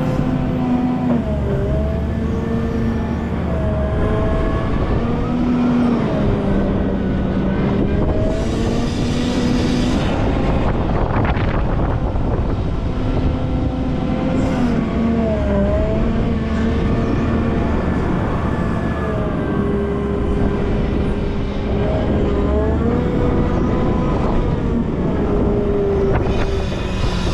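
Volvo L90F wheel loader's diesel engine working hard, its pitch rising and falling again and again as it is revved up and eased off while shifting snow. A short burst of hiss comes about eight seconds in.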